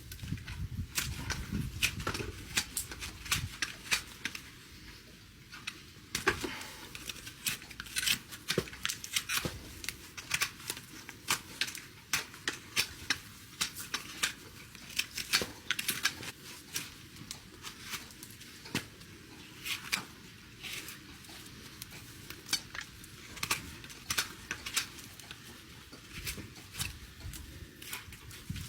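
Hoof-trimming tools cutting and paring a horse's hoof: an irregular run of sharp snips and scrapes, several a second, with quieter gaps between.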